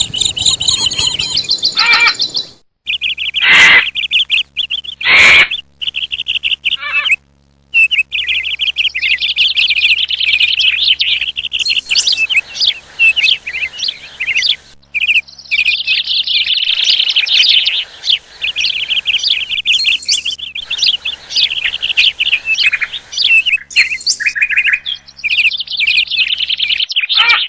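Recorded birdsong used as a bird lure: many small birds chirping, twittering and trilling rapidly and almost without pause, spliced together from several recordings with sudden cuts between them. Two loud, sharp bursts come a second and a half apart, about four and five seconds in.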